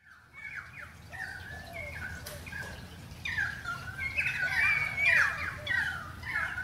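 Several birds calling over one another in short, falling, chattering calls, growing louder in the second half.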